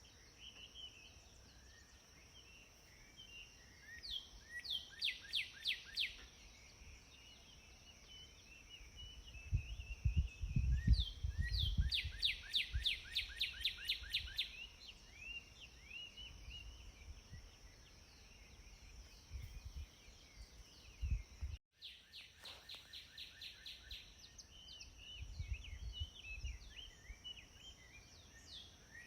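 Outdoor birdsong: several birds chirping, one repeating a fast trill of rapid notes in bursts of a second or two every several seconds, over a steady high-pitched tone. Low rumbles come and go, loudest about a third of the way in.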